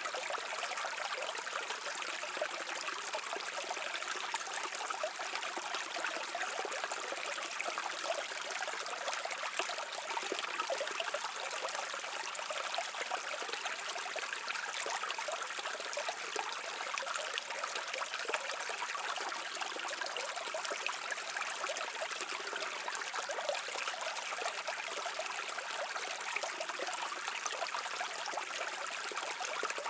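A shallow stream babbling and trickling over rocks, a steady even rush of water.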